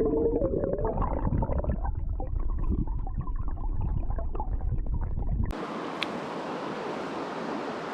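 Loud, muffled low rumbling and gurgling for about five and a half seconds. It cuts off abruptly into the steady rushing of a clear, fast-flowing stream.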